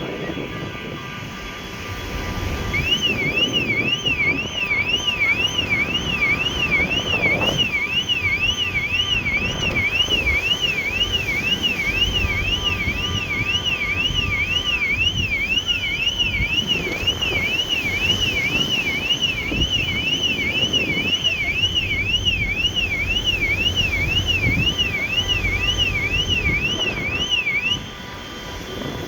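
Electronic alarm siren wailing up and down about twice a second, starting a few seconds in and cutting off suddenly near the end, over the steady low rumble of the ferry's engines.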